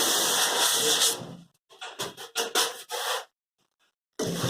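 Refrigerator packing material being handled: a long rubbing scrape, then several shorter scrapes, before the sound cuts out abruptly to silence for about a second near the end.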